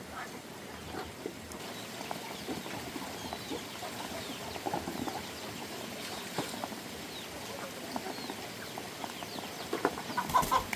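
Chickens clucking, with scattered short chirps and light knocks. A quick run of louder, sharp knocks comes near the end.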